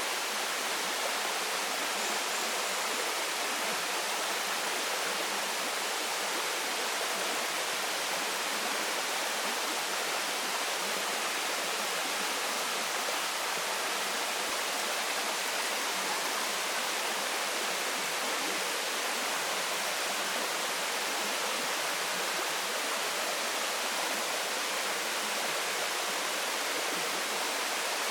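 Waterfall: water falling and splashing into a pool, a steady, even rush of white noise with no change in level.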